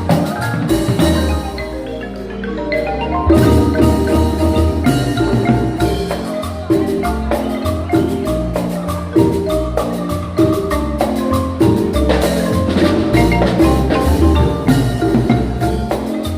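Guatemalan marimba ensemble playing a lively tune: quick, rolling mallet notes over a deep bass line. The music thins out and softens about a second in, then comes back full around three seconds in.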